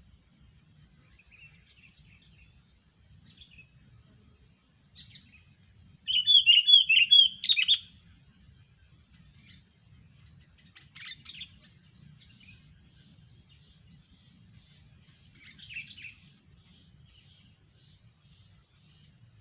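Sooty-headed bulbul calling: scattered short calls, with one loud, quick run of bubbly whistled notes about six seconds in lasting a couple of seconds, then a few fainter calls.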